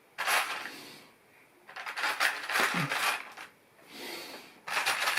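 Loose LEGO plastic pieces rattling and clinking as they are handled and sorted, in several short bursts.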